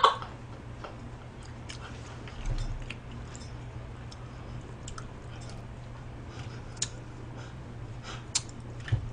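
A person chewing food, with scattered light clicks of chopsticks and a steady low hum.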